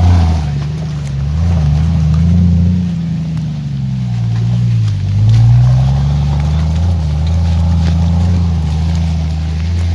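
Off-road 4x4's engine revving in uneven surges, its pitch rising and falling several times with a dip about halfway through.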